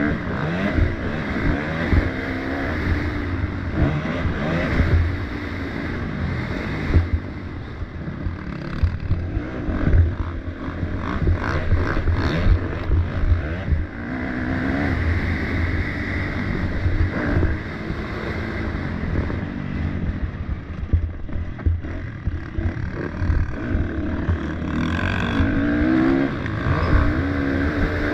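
Motocross dirt bike engines racing, revving up and falling back again and again as bikes pass and work the track.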